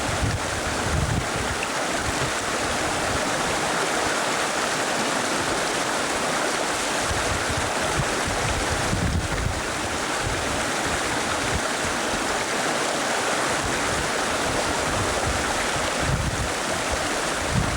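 Steady rush of river water, with wind buffeting the microphone in low gusts a couple of times.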